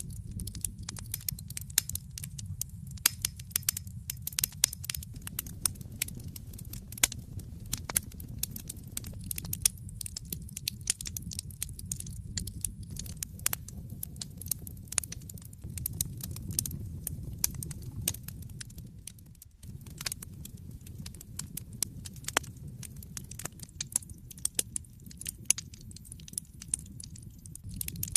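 Wood fire burning in a fireplace: dense, irregular crackles and pops from the burning logs over a steady low rumble of the flames. The low rumble drops out briefly about two-thirds of the way through.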